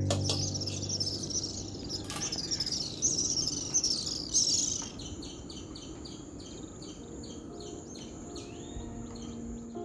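Birds chirping and singing, followed in the second half by a run of short repeated chirps, about three a second.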